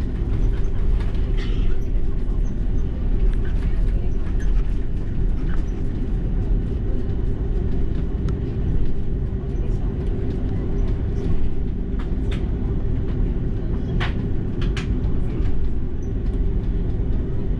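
Cabin noise inside an Airbus A330-300 on the ground: a steady low rumble from the airliner with its engines running, with a few sharp clicks near the end.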